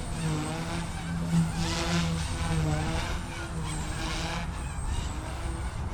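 Blade 150S small electric RC helicopter flown hard through flips: the rotor and motor whine keeps rising and falling in pitch, with whooshing swells from the blades. Wind rumbles on the microphone underneath.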